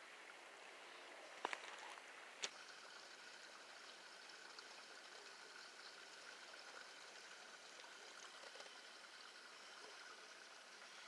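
Faint steady trickle of runoff water flowing through a ditch, with two short sharp clicks about a second apart near the start.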